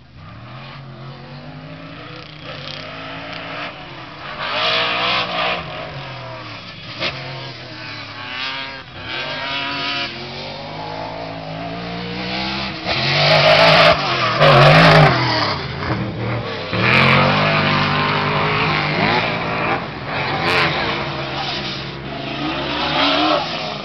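Off-road race vehicles' engines revving up and down as they race past, loudest about halfway through.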